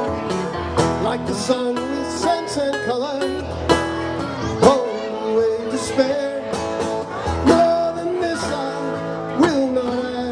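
Guitar music: an instrumental passage of plucked and strummed guitar, with a melodic line whose notes bend and slide, over a steady low bass.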